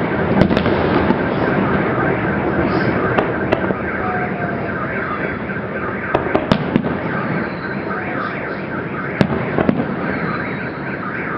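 Fireworks going off in sharp bangs, in small clusters a few seconds apart, over a continuous wavering din.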